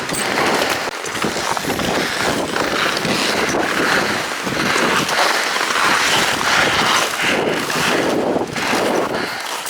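Strong mountain wind buffeting the microphone: a loud, gusting rush that rises and eases every second or so.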